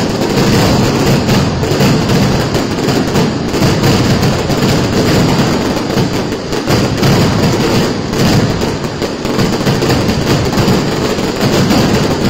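Fireworks going off close by in a dense, continuous barrage of rapid bangs and crackling, loud throughout with no pause.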